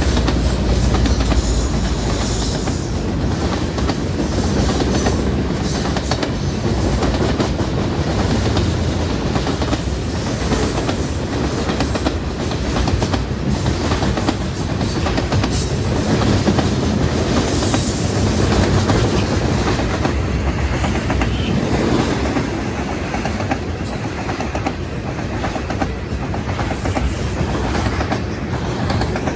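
Train cars rolling past, their wheels clacking over rail joints in a long, steady stream of clicks.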